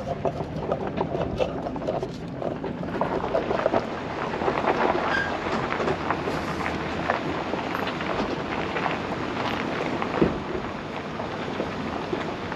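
Pickup truck creeping down a steep rocky dirt trail in low-range four-wheel drive: tyres crunching over gravel and rock with many small crackles and pops over a low engine hum, and a heavier knock about ten seconds in.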